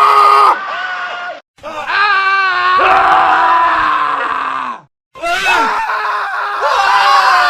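Male screams edited back to back: several separate recorded screams, each a second to three seconds long, with two abrupt cuts to silence between them. The longest cry wavers in the middle and slides down in pitch as it ends.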